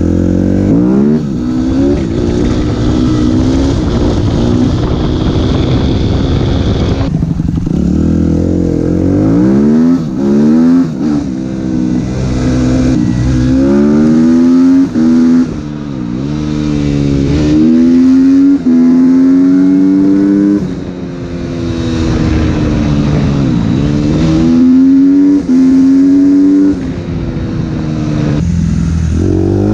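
Suzuki RM-Z250 single-cylinder four-stroke motocross engine with an open Akrapovič exhaust, ridden hard. The revs climb and fall again and again, with several brief sharp cuts in loudness as it shifts or backs off the throttle.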